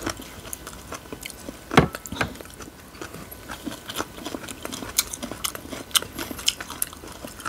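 Close-up chewing and crunching of green mango and chicken feet salad: a run of short, sharp crackles and wet clicks from mouths at work, with one louder crunch about two seconds in.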